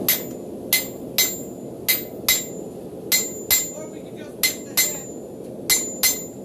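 Blacksmith's hammer striking a railroad spike on a Hay Budden anvil, about eleven blows, mostly in close pairs, each with a short high metallic ring.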